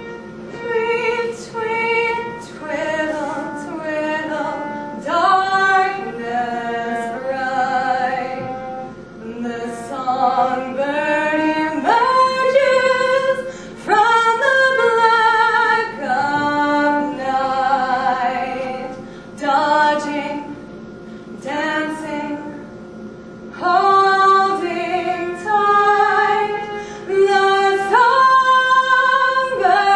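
A woman singing a slow melody, with long held notes and vibrato.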